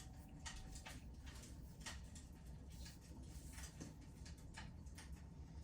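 Wood fire in a fireplace crackling faintly: irregular sharp pops and snaps, a few a second, over a low steady rumble.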